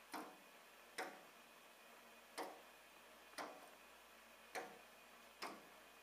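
A bird tapping its beak against window glass: six sharp taps, irregularly spaced about a second apart.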